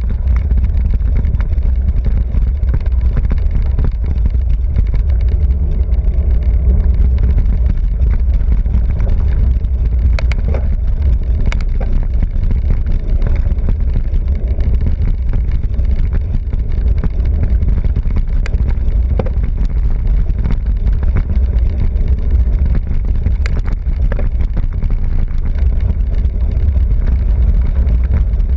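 Wind buffeting the microphone and road noise during a fast ride on a bicycle, a steady low rumble, with a few sharp clicks now and then.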